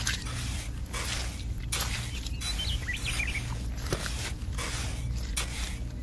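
Miniature hand trowel smoothing and scraping wet concrete, a series of short soft scraping strokes over a steady low background hum. A few faint bird chirps come about halfway through.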